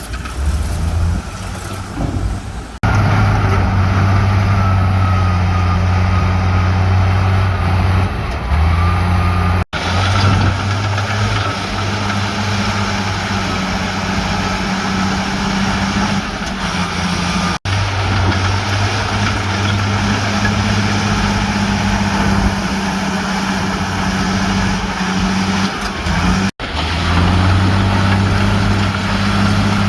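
Diesel engines of heavy earthmoving machinery, bulldozers and dump trucks, running steadily with a deep hum. The sound changes abruptly about three seconds in and drops out for an instant three times later.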